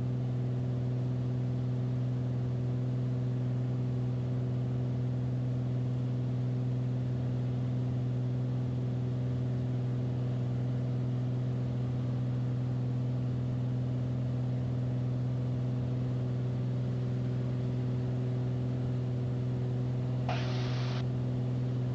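Beechcraft Bonanza's piston engine and propeller droning steadily at climb power, heard in the cockpit. A short faint hiss comes near the end.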